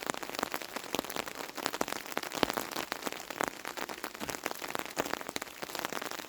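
Steady rain, with many individual raindrops striking close by in dense, irregular clicks and one sharper drop about two and a half seconds in.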